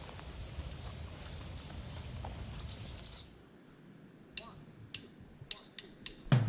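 Bird calls outdoors: one brief high call about two and a half seconds in, then a quick series of short, sharp chirps near the end over a faint background.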